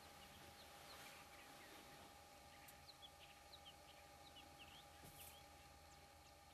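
Near silence with faint, quick bird chirps, mostly clustered in the middle, over a faint steady hum.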